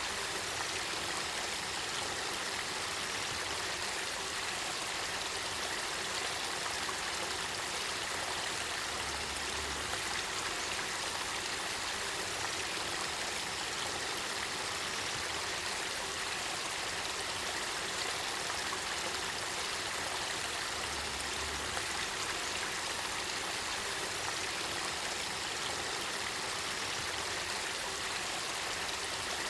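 Spring water of the Kakita River flowing in a steady, unbroken rush of running water.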